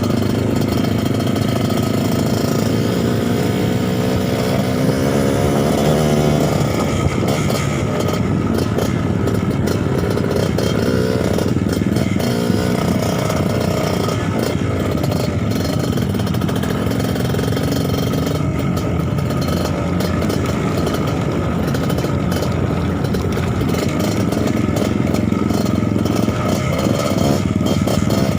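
Trail motorcycle engine running under changing throttle, its pitch rising and falling, with a rev climbing near the end.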